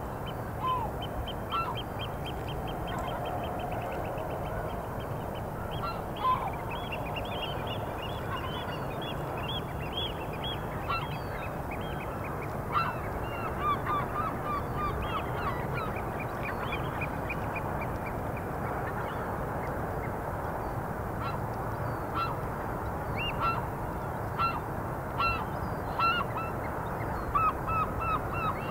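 Birds calling: many short, repeated calls over a steady background noise, with a quick trill in the first few seconds.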